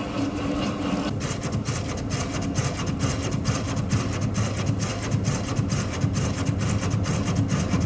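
Metal lathe taking an interrupted cut on the broken end of a steel hydraulic cylinder rod with a button insert: over the lathe's steady hum, the tool starts knocking in a rapid, even rhythm about a second in as it strikes the uneven surface each turn. The insert does not stand up well to this interrupted cut.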